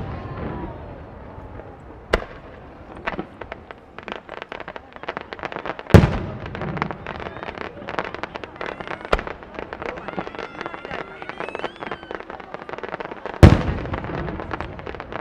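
Fireworks display: aerial shells bursting with sharp booms, four of them, the loudest about six seconds in and near the end, each trailing an echo. Dense crackling fills the gaps between the booms.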